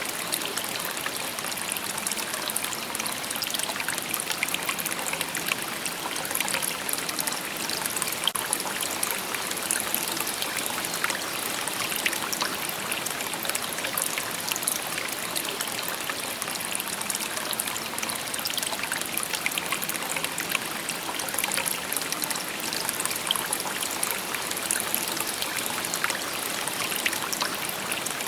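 A shallow stream babbling and trickling over stones, a steady bright rush with many small splashes and gurgles.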